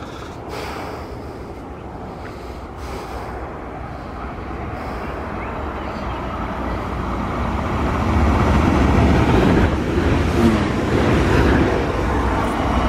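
Electric regional express train approaching on the main line and running past close by. Its rumble and rail noise grow steadily louder and are loudest over the last few seconds.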